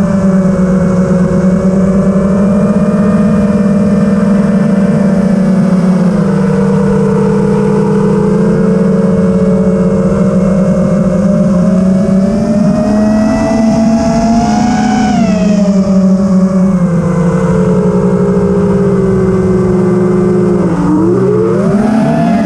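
FPV quadcopter's electric motors and propellers buzzing in flight, the pitch drifting up and down with the throttle, with a quick drop and surge near the end.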